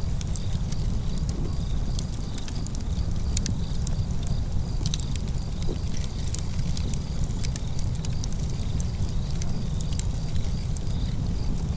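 Wood fire crackling, with many sharp irregular pops over a steady low rumble. A faint high-pitched pulsing runs behind it.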